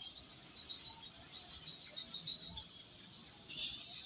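Night-time insect chorus, crickets chirping in a high, even pulse of about five chirps a second over a continuous higher trill.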